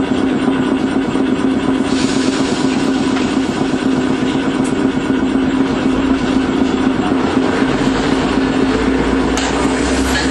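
Onboard running sound of an Iyotetsu Matsuyama streetcar: a steady motor hum over the rumble of wheels on rail, with a deeper rumble building from about halfway and a single sharp click near the end.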